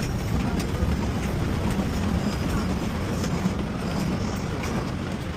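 Light-rail train running at a station, a steady low rumble with a few faint clicks.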